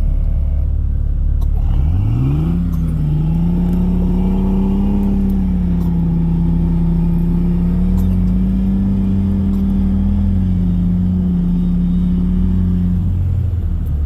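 Jeep Cherokee XJ's engine revving up about two seconds in, held at high revs for about ten seconds over a steady low rumble, then dropping back near the end.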